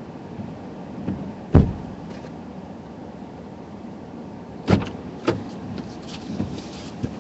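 Thumps and clunks from a stopped car over a steady low cabin hum: one sharp loud knock about a second and a half in, two more a little past halfway, and a small click near the end.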